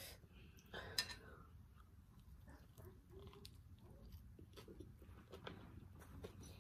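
A person biting into a lettuce-leaf wrap of grilled fish and chewing it, with one crisp crunch about a second in and faint, wet mouth clicks after.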